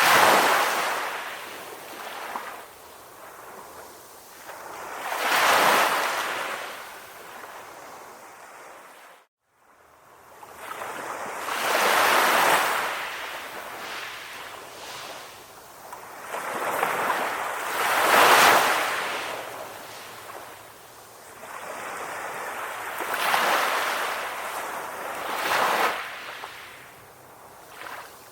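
Calm sea waves breaking and washing in, swelling and falling away every five to six seconds. The sound cuts out briefly about nine seconds in.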